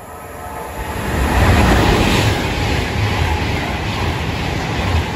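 Freightliner container freight train passing at speed: a steady rush of wheels on rail with a low rumble from the wagons, building about a second in.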